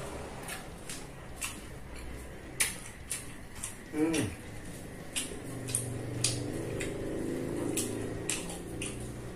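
Close-up mukbang eating sounds: irregular wet clicks and smacks of a mouth chewing rice and fuyunghai, one or two a second, with a low hum through the second half.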